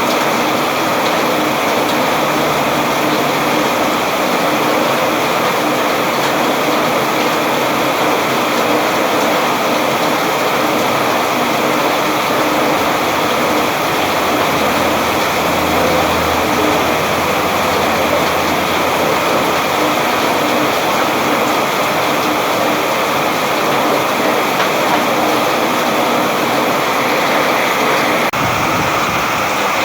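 Steady rain falling, a dense even hiss of drops that never lets up.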